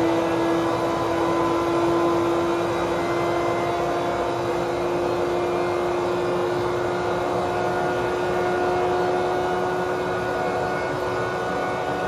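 Car engine pulling under acceleration, its note climbing slowly and steadily, over a steady rushing noise.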